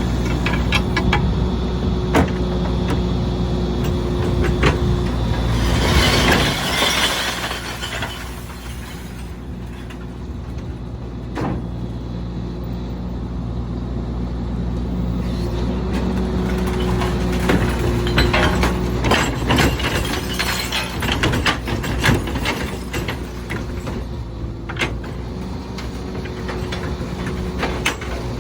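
Volvo Xpeditor rear-loader garbage truck's diesel engine running steadily while its Heil PowerTrak packer works the trash. Scattered clattering knocks and breaking glass come from the hopper, and a loud hiss sounds about six seconds in.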